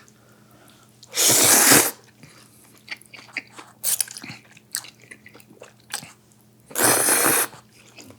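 Two loud slurps of spicy seafood noodle soup (jjamppong), one about a second in and one near the end, with chewing and small clicks between them.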